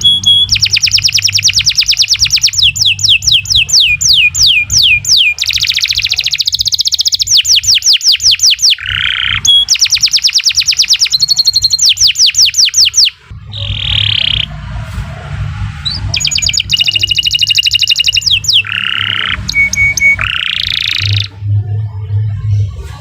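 Domestic canary singing a long, continuous song of fast, repeated trills and rolls, with a short break about 13 seconds in before it carries on with more varied phrases.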